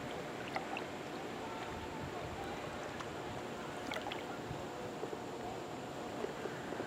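Steady rush of river water around a kayak, with a few light clicks and knocks.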